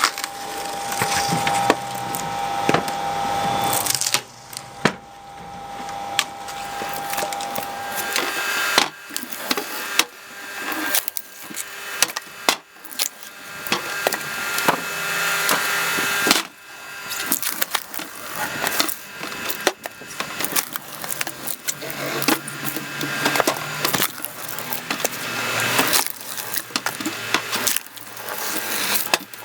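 Logs creaking, cracking and splintering as a screw-cone log splitter drives into them and forces them apart. The noise builds again and again and then drops off suddenly as each piece gives way.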